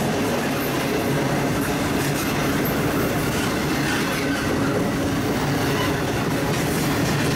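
CSX double-stack container train rolling past at speed: a steady, loud noise of steel wheels on rail as the well cars go by.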